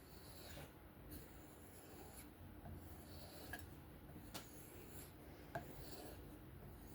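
Faint, rhythmic rubbing strokes of a 3V steel knife blade drawn freehand along a strop loaded with fine micron compound, with a light tick now and then as the edge meets or leaves the strop.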